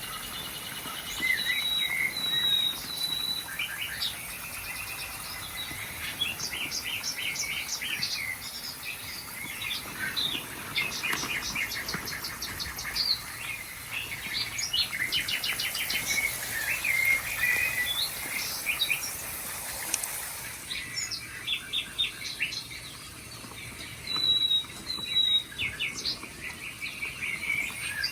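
Several songbirds chirping and singing, with overlapping fast trills and short whistled notes.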